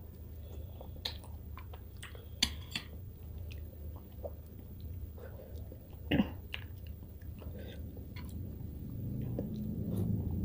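Close-miked chewing of a hand-fed mouthful of rice and fish curry, with wet mouth smacks and clicks. The loudest smack comes about six seconds in.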